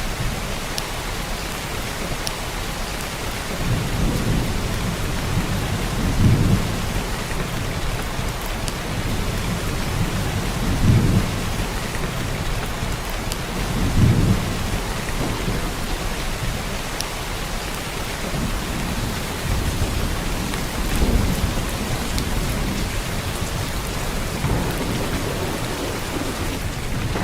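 Steady heavy rain pouring down, with deep low rumbles swelling up about five times.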